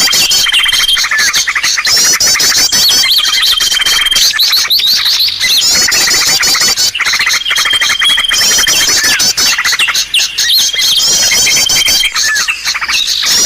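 Small-bird lure recording (suara pikat): a dense mix of high chirps, fast trills and a held thin whistle from small birds, loud and without pause, recurring in a looped pattern every few seconds.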